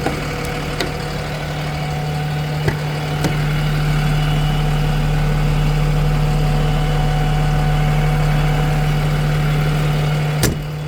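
Peterbilt service truck's diesel engine idling steadily. A few faint clicks sound over it, with a sharper click near the end.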